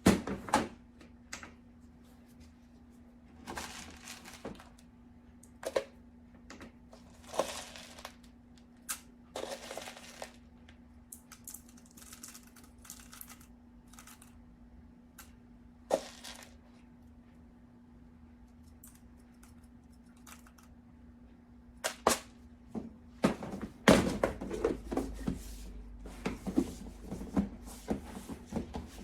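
Scattered clicks, knocks and short rustles of containers and a scoop being handled while BTMS-50 is weighed out into the oil portion, over a faint steady hum. The knocks come closer together near the end.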